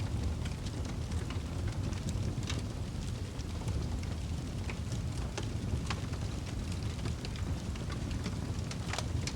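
Wood fire burning in a fireplace: a steady low rush of flames with irregular sharp crackles and pops, one louder pop near the end.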